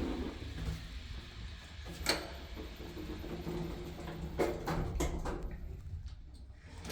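Old Mitsubishi Elepet elevator: a steady low rumble with one sharp knock about two seconds in and a quick run of four clicks or knocks a little past the middle.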